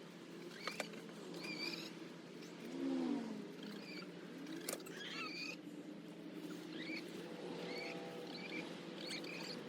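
Chickens clucking softly, a low wavering murmur, among many short high chirps, with a couple of sharp clicks.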